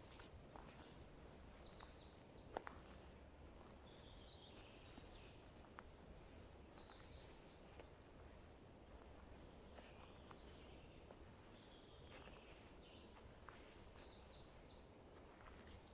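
A songbird singing faintly in a forest, three times repeating a short high phrase of notes that step downward, with fainter calls between phrases. A few faint sharp clicks and a low steady background hum run under it.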